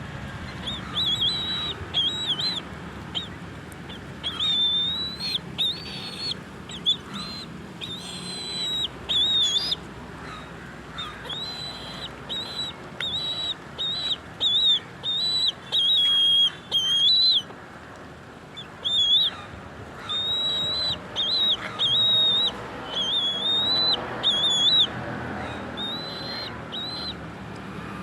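A bird calling in long runs of short, high-pitched whistled notes, one after another, with a short pause a little past halfway.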